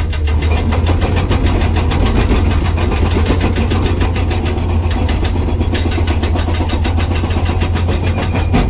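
Hydraulic breaker on a Komatsu PC200 excavator hammering hard rock in rapid, even blows, several a second, over the steady low hum of the excavator's diesel engine.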